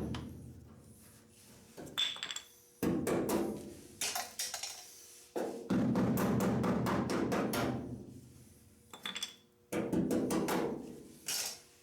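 A mallet tapping on a plastic block against a truck's lower body-trim moulding, in several runs of quick taps, to slide the trim along its mounting tabs and knock it free.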